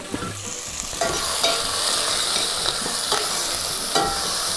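Small pieces of pork and onion sizzling as they fry in oil in a hot pot, with a few light knocks of stirring. The sizzle grows louder about a second in and then holds steady.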